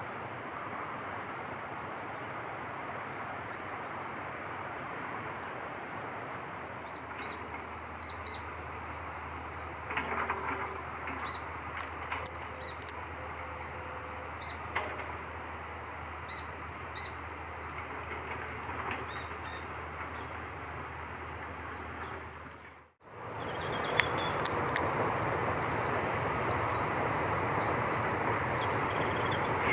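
Small birds chirping in short, high calls over a steady outdoor hiss. About two-thirds of the way in the sound drops out for a moment and the background hiss comes back louder.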